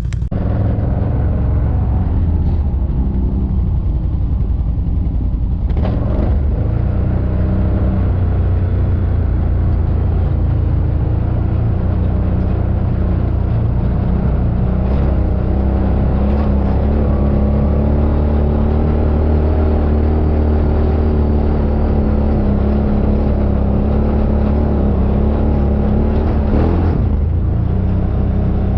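ATV (quad bike) engine running under way, its pitch rising and falling with the throttle.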